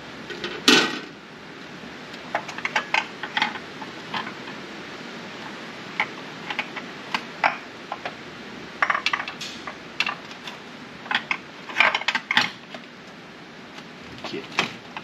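Irregular metal clinks and taps as a chrome air cleaner housing is set and shifted about on top of a carburetor, trying to line it up. The loudest clank comes just under a second in.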